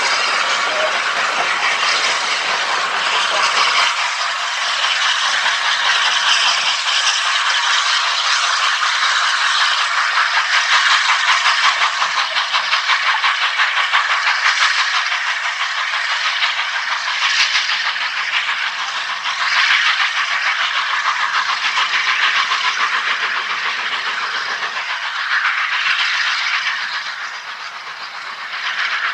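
Steam train on the move with a steady loud hiss of steam.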